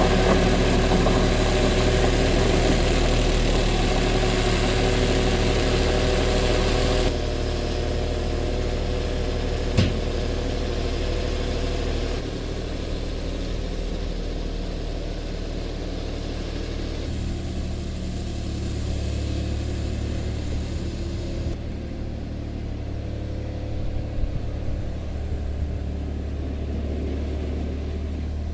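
Tractor engine running steadily, with sudden drops in level about seven and twelve seconds in and a single sharp click near ten seconds.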